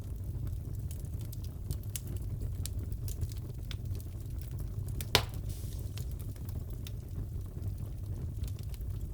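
Fireplace fire crackling: a steady low rumble with scattered small crackles and one louder pop about five seconds in.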